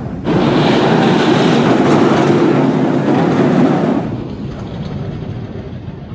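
Steel B&M looping roller coaster train passing on its track: a loud, dense rush that starts abruptly and fades after about four seconds.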